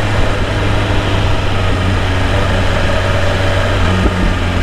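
BMW S1000RR inline-four engine running steadily at low speed in second gear, mixed with wind and road noise.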